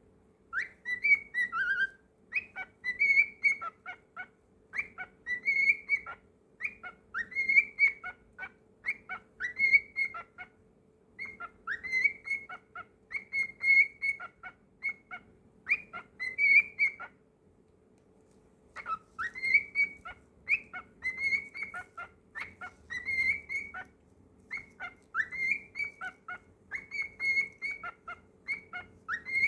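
Pet cockatiel whistling its song: fast runs of chirpy whistled notes in repeated phrases, with a short pause just past the middle.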